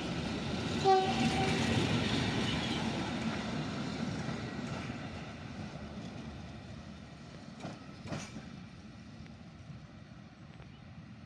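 Diesel-hauled passenger train with Czech-built coaches, heard from a carriage window, its rolling noise fading steadily as it slows. About a second in comes a short horn toot, and two sharp clicks come near the end.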